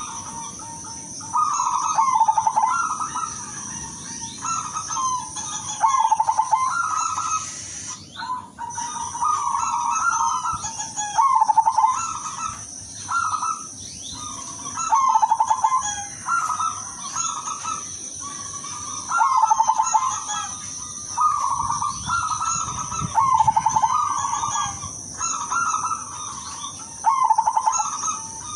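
Zebra dove (perkutut, silver colour form) cooing over and over, each rolling, stuttering phrase lasting about a second and coming again every second or two, with a steady high-pitched hiss underneath.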